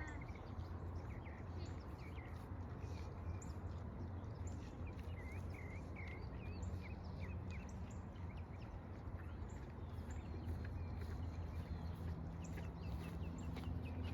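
Birds chirping in many short, scattered calls over a steady low hum.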